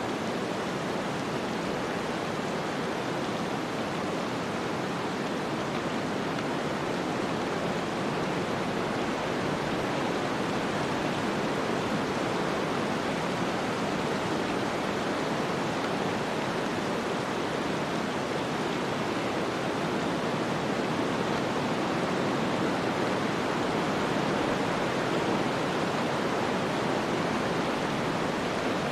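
Snowstorm ambience: a steady, even rushing of wind and blowing snow, growing slightly louder in the second half.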